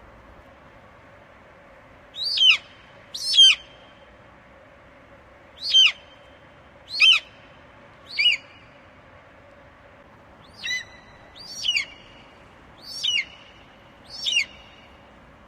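Eagle calling: a series of nine short, high-pitched calls, each falling in pitch, in loose groups of two or three.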